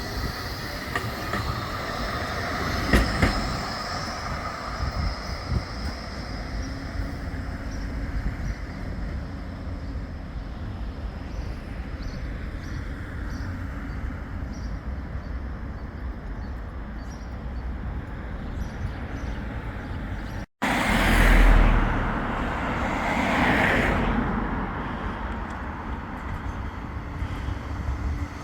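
Bombardier Flexity 2 light rail tram running on its track, with a thin, high wheel squeal in the first few seconds. After a sudden break about twenty seconds in, the running sound comes back louder, swelling and fading twice as a tram goes by.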